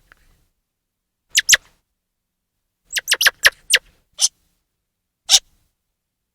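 Squirrel chirping: short, sharp, high calls in uneven bursts, a pair, then a quick run of about five, then two single calls.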